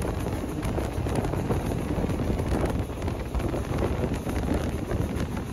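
Train running along the track: steady rumbling wheel-and-rail noise with wind buffeting the microphone.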